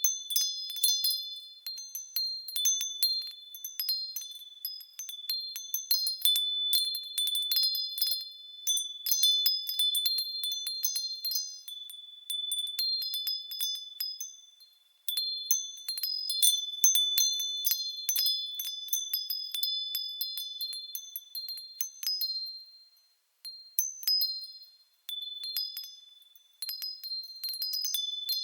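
Japanese wind chime (furin) swaying in the breeze, its clapper striking irregularly and giving clear, high ringing tones that overlap and fade, with a few brief lulls.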